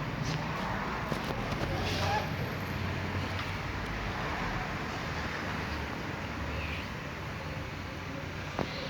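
A vehicle engine running steadily at low revs, a low even hum, with a few faint clicks.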